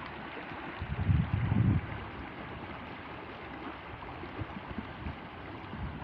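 Steady rush of flowing stream water, with gusts of wind buffeting the microphone about a second in.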